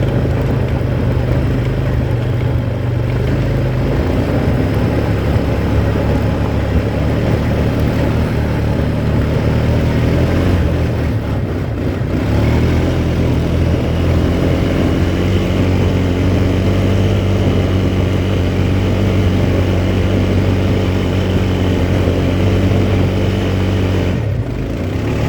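Quad bike engine running steadily while riding, its note shifting a few times as the speed changes.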